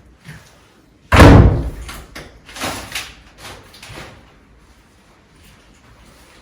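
A door slamming shut with a loud bang about a second in, ringing briefly after. A few fainter knocks follow.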